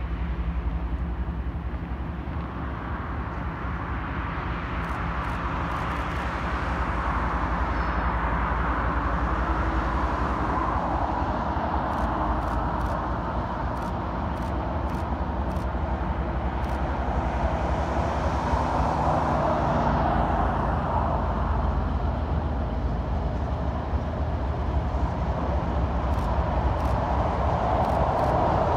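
Diesel-hauled intermodal freight train approaching: a steady low diesel drone under a rush of engine and rolling noise that grows gradually louder toward the end.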